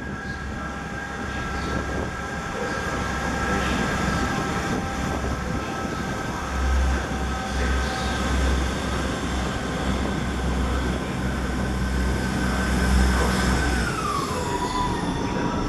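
Two coupled Class 159 diesel multiple units pulling away, their diesel engines running under power. A deep rumble grows heavier about six seconds in, over a steady high whine that drops in pitch near the end.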